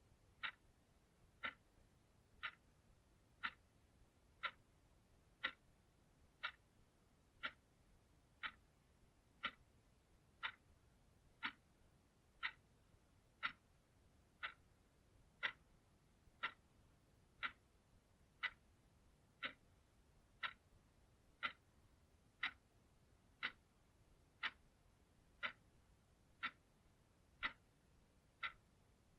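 Clock ticking steadily, one short, sharp tick a second, every tick alike.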